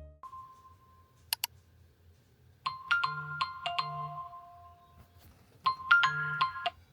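Phone alarm ringtone: a short bright chiming melody that plays, pauses about a second, then starts over.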